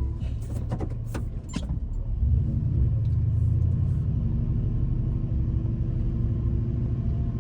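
A truck engine running, heard from inside the cab as a steady low rumble that gets louder about two seconds in. A few sharp clicks come in the first two seconds.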